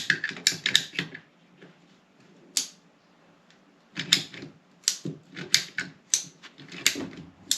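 Ratcheting pipe cutter clicking as it is squeezed through a plastic water line: a quick run of sharp clicks, a pause, then slower, irregular clicks again about four seconds in.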